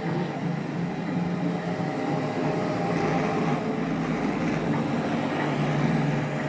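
Roborock robot vacuum running, its motors and suction fan giving a steady hum. A deeper rumble joins for a few seconds in the middle.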